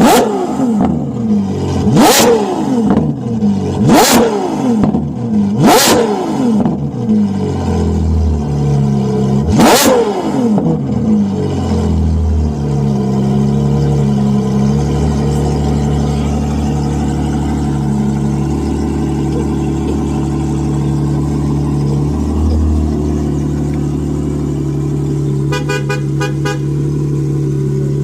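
Ferrari 812 GTS's 6.5-litre naturally aspirated V12 blipped hard five times, each rev spiking up and falling away, at about two-second intervals with a longer gap before the last. It then settles into a steady idle.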